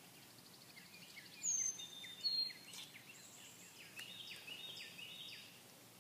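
Birds singing: two clear, high calls slurring downward, about a second and a half and about two and a quarter seconds in, over a scatter of faint high chirps from other birds.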